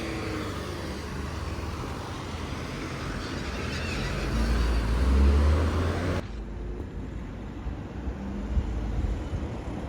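Street traffic, with a bus's diesel engine rumbling past. The rumble is loudest about five seconds in, then the sound drops suddenly a little after six seconds to quieter traffic.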